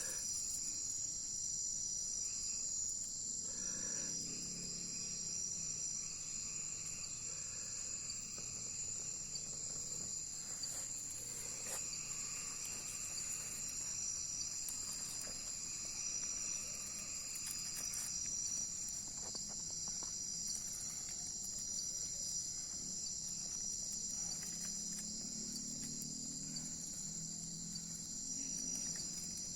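Night insect chorus, crickets trilling steadily and unbroken in a high, even pitch.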